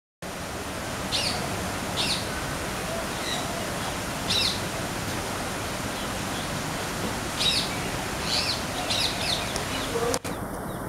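Short, high bird chirps, repeating every second or two, over a steady hiss of background noise.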